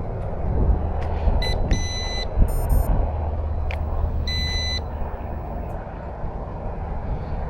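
Several short electronic beeps, a high tone sounding three times with a different multi-note beep between the second and third, over a steady low rumble.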